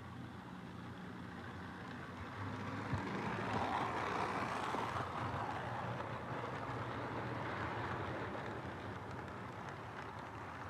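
Postwar Lionel 2-6-2 O gauge model steam locomotive running along the track, its motor and wheels whirring and rumbling. It grows louder to its peak about four seconds in as it comes close, then slowly fades as it moves away.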